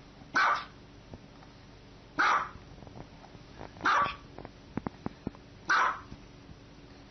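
A small dog barking in single short, sharp barks, four of them spaced about two seconds apart, with a few light clicks between the third and fourth.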